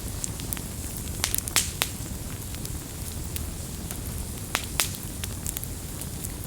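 Campfire crackling: wood snapping and popping in sharp, irregular clicks, several close together about a second and a half in and again near five seconds, over a low steady rumble.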